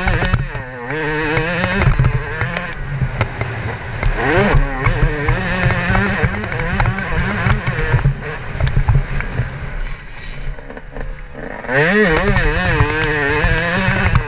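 Yamaha YZ125 two-stroke single-cylinder engine revving hard as the motocross bike is ridden, its pitch repeatedly climbing and dropping back with throttle and gear changes. It eases off briefly about ten seconds in, then revs up loudly again, over a steady rumble and clatter from the bike and track.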